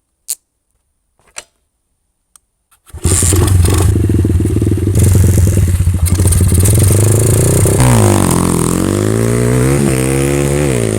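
Pit bike engine coming in suddenly about three seconds in after a couple of sharp clicks, running steadily, then revved up and down several times in the last few seconds.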